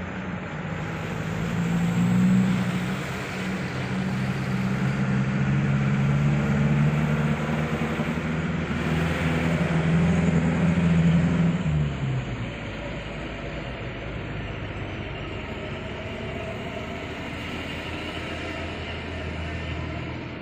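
Heavy road vehicle's diesel engine running close by with a steady low drone. The drone drops away about twelve seconds in, leaving steady traffic noise.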